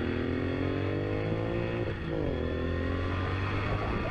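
Motorcycle engine accelerating hard, its revs climbing, dropping briefly about two seconds in as it shifts up a gear, then climbing again.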